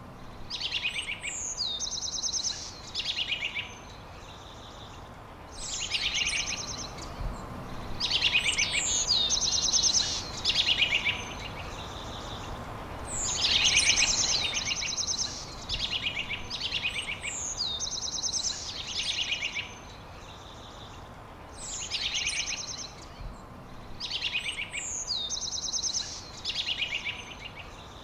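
Songbirds singing, repeating short phrases of a swooping note and a fast high trill again and again with brief pauses, over a steady background hiss.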